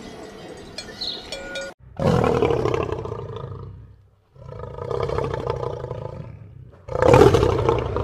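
A lion roaring three times, each roar about two seconds long, the last one the loudest. Before the roars, a cowbell clinks faintly for a second or two.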